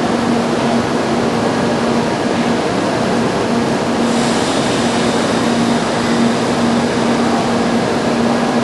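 Shinkansen bullet train standing at the platform, its equipment giving a loud, steady rumble and hum that drops out briefly at regular intervals. A hiss comes in about halfway through.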